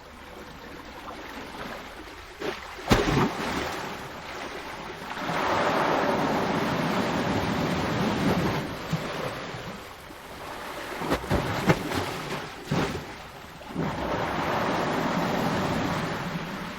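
Ocean waves breaking and washing ashore, the surf swelling and falling away in two long surges. A few sharp low thumps cut through, one about three seconds in and a cluster a little past the middle.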